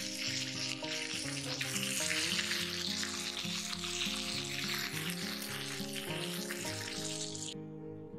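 A chicken breast sizzling as it fries in oil on a grill pan, with background music underneath; the sizzle cuts off near the end while the music carries on.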